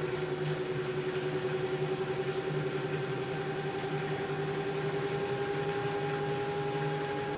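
LG F10B8QD1 direct-drive washing machine running, its motor giving a steady whine over a pulsing hum, the upper tone slowly rising in pitch as the drum speeds up.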